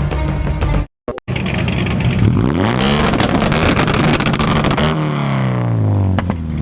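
A car engine revving: after a brief break about a second in, the revs climb over a couple of seconds, hold high, then fall back toward idle near the end.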